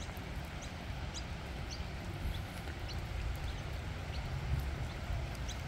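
Outdoor street ambience after rain: a steady low rumble and soft hiss, with small birds giving short high chirps every second or so.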